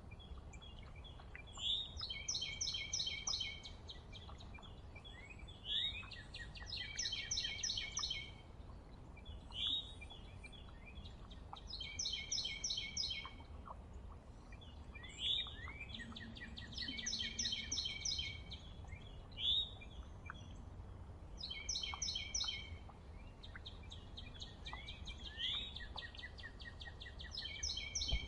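A songbird singing the same short song over and over, each a quick slurred note followed by a fast high trill, repeated about every three to four seconds.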